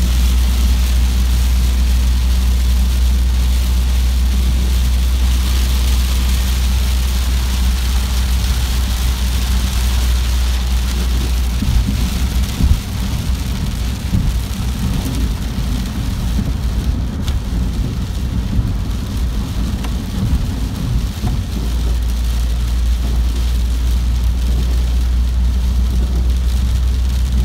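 Heavy rain hitting a vehicle's windshield and roof, heard from inside the cabin as a steady hiss over the low drone of the moving vehicle on the wet highway. For several seconds midway the low rumble turns uneven before settling back to a steady drone.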